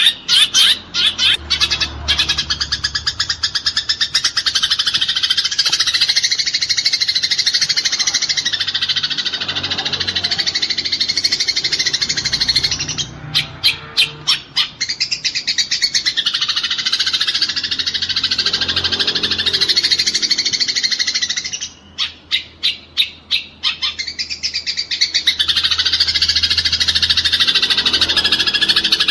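Eurasian tree sparrows giving fast, dense fighting chatter, a continuous stream of rapid buzzy chirps. About half-way through and again near the end, the stream breaks into short runs of separate quick chirps.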